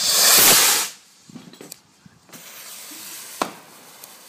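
Firework rocket launching with a loud hiss lasting just under a second, followed about three seconds later by a single sharp crack.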